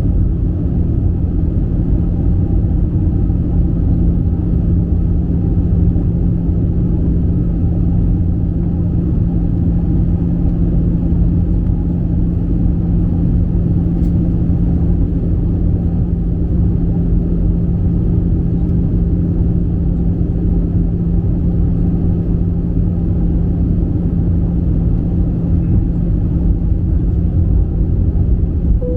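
Airbus A320 cabin noise heard from a window seat: a steady low rumble of the jet engines and airflow, with a constant hum. A faint extra steady tone joins about halfway through. The aircraft is in its descent towards landing.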